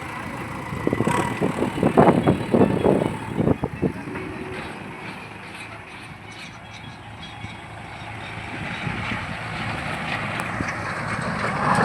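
Diesel engines of a JCB backhoe loader and a tractor running hard under load while the JCB tows the stuck, loaded tractor-trolley out. The sound is rough and uneven for the first few seconds, eases, then builds into a steadier drone toward the end.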